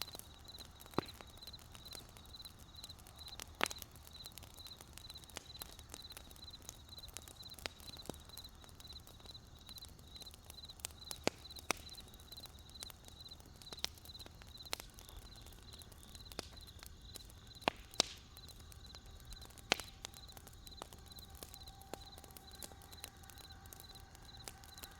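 Crickets chirping in a steady, evenly pulsed high trill, over the irregular crackles and pops of a wood campfire. Several louder single pops stand out, and a faint steady tone joins near the end.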